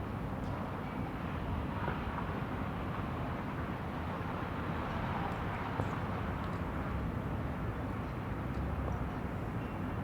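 City street ambience: a steady low rumble of traffic, with a few faint scattered ticks on top.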